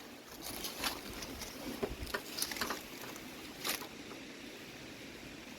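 Faint, scattered clicks and light scrapes of hand tools working loose plastic grille and trim parts on a junked car, about five separate ticks with quiet handling in between.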